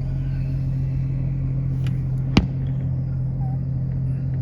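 Steady low hum of a car idling, heard from inside the cabin, with one sharp click a little past halfway.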